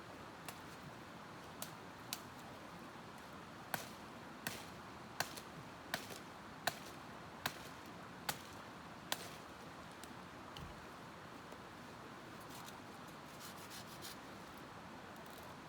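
A series of about eight sharp knocks, evenly spaced less than a second apart, over a steady outdoor hiss. A few fainter knocks come before and after.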